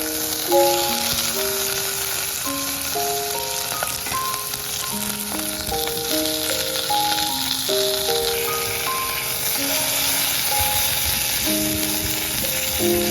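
Food sizzling steadily in a hot frying pan, a constant crackling hiss, under soft background music with a simple melody of single notes.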